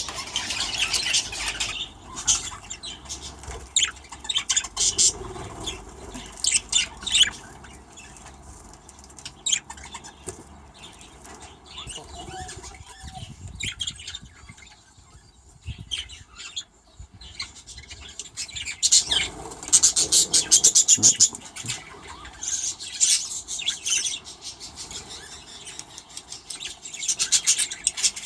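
Budgerigars chattering and squawking in quick, scratchy bursts, with some wing flutter; the chatter comes and goes, with a quieter lull midway and loud bursts in the second half.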